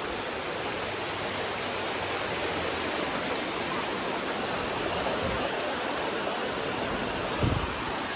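Heavy rain pouring down in a steady, even rush. A brief low thump comes near the end.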